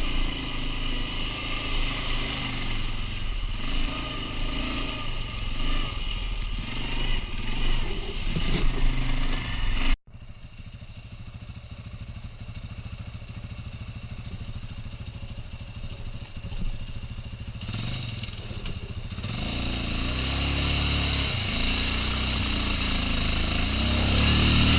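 Quad bike (ATV) engine running and revving, its pitch rising and falling. About ten seconds in the sound cuts off abruptly to a quieter, steadier stretch, then the engine grows louder again toward the end.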